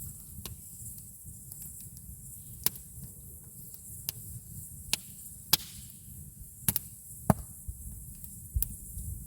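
Campfire crackling: burning wood gives irregular sharp pops and snaps, several of them loud, over a steady low rumble.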